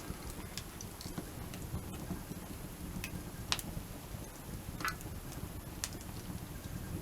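Wood fire crackling: sharp single pops every second or so over a low, steady rumble.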